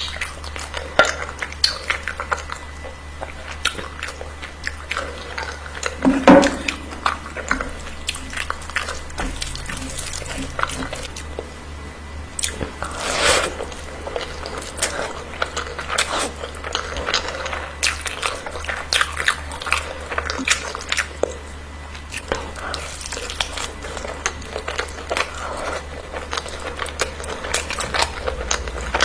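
Close-up eating: a person biting and chewing food, with many short sharp clicks and a few louder bites about six and thirteen seconds in, over a steady low hum.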